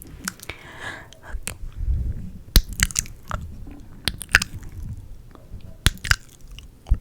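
Close-miked ASMR mouth sounds: irregular wet clicks and smacks of the lips and tongue, coming one after another at uneven intervals.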